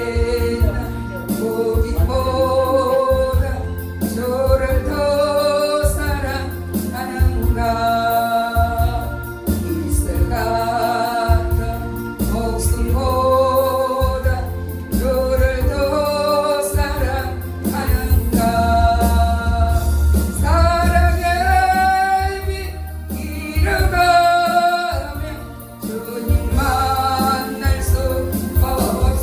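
A Korean gospel song sung with instrumental accompaniment: a singing voice in long held phrases with vibrato over a heavy, steady bass.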